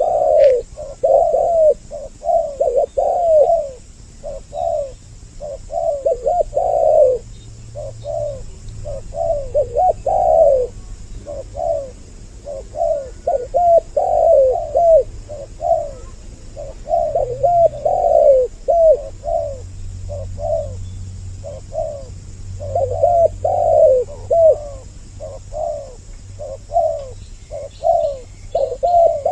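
Spotted doves cooing over and over, two birds calling at once so their coos overlap almost without pause, as used in a lure recording to draw in males and females.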